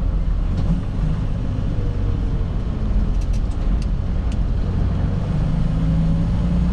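Semi tractor's diesel engine running as the truck drives slowly without a trailer, a steady low drone that grows a little stronger near the end.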